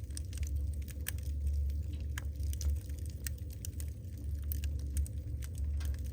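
Wood fire burning in a fireplace, crackling with many small, sharp, irregular pops over a steady low rumble.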